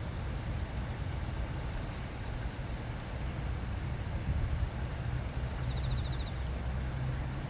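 A river stream flowing, a steady rush of water with a low rumble underneath. A brief, rapid high trill comes about six seconds in.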